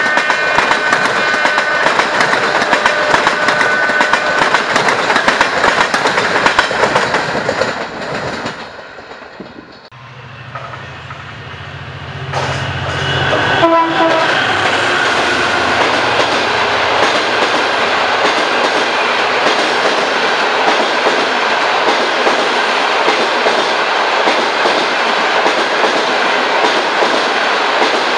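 Passenger train coaches passing at speed, wheels clattering over the rails. Near the middle the sound drops away; then a diesel locomotive's low engine hum draws near, and the train rushes past with its coaches clattering by.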